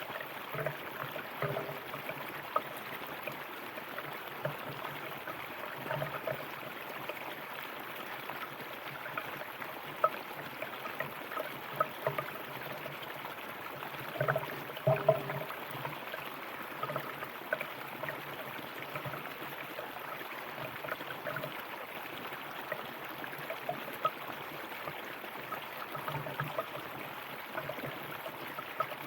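River water flowing steadily over stones, with a continuous rush and frequent small gurgles and splashes.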